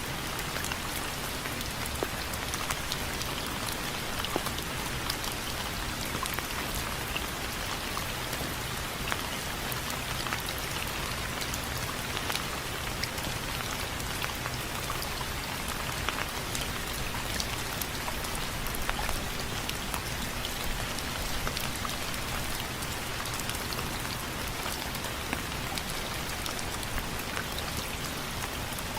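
Steady rain with many separate drops tapping sharply on a window frame.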